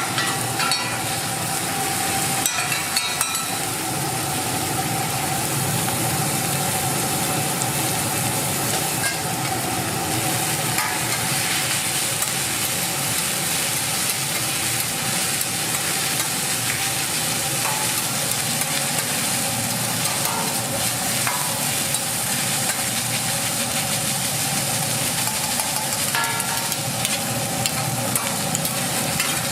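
Egg fried rice sizzling in a hot pan as it is stirred, with occasional clicks and scrapes of the utensil, over a steady mechanical hum.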